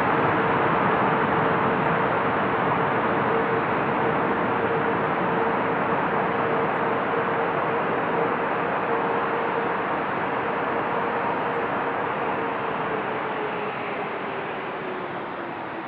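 Jet noise from a landing Boeing 777-9's GE9X turbofan engines: a steady rush with a humming tone running through it. The whole sound slowly fades, and the tone sinks slightly in pitch near the end.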